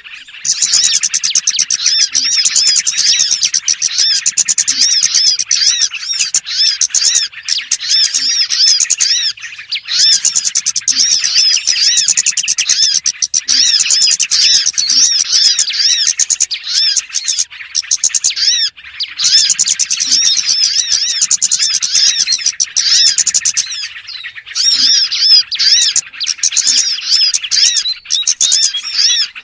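Lure-call track of small birds chirping: rapid, high-pitched chirps packed close together and running almost without a break, with a few short pauses.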